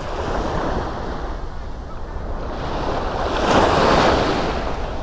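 Sea waves washing onto the shore, one wave surging louder about three and a half seconds in, with wind rumbling on the microphone.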